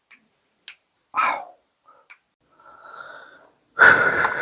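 A man breathing hard close to the microphone: a short breath about a second in, a softer one around three seconds and a loud rushing exhale near the end, with a few faint clicks between them.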